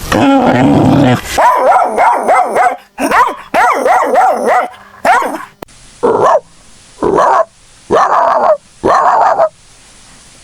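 Puppies yipping and barking: a quick run of high, rising-and-falling yips, then four separate barks with short gaps between them in the second half.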